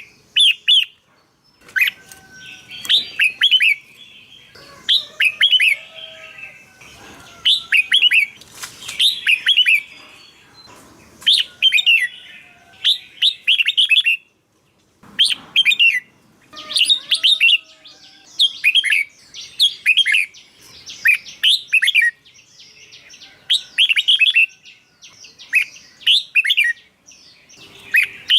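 Red-whiskered bulbul singing: short phrases of quick, warbling whistled notes repeated every second or two, with brief pauses between them and a short break about halfway through.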